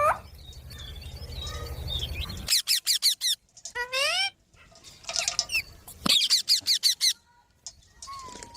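Green parrots calling: several bursts of shrill, rapid screeches with rising squawks, starting about two and a half seconds in. A low steady hum comes before them.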